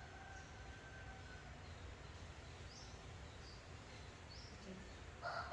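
Quiet background with a low steady hum and faint, short, high bird chirps about once a second. A louder call starts right at the end.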